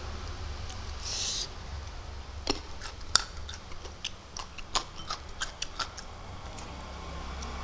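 Close-miked eating: a man chewing a mouthful of spicy noodles with his mouth open, a run of wet clicks and lip smacks, after a brief hiss about a second in. A steady low hum runs underneath.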